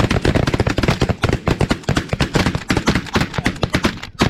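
Snow geese calling: a dense, continuous clamour of many short, sharp honks, which cuts off suddenly at the end.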